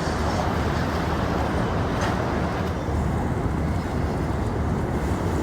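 Steady outdoor rumble of engines and vehicle traffic, an even noisy hum without distinct events.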